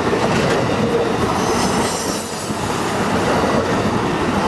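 A train passing close by on the tracks: a loud steady rumble and rush of wheels on rail, with faint high squealing tones from the wheels above it.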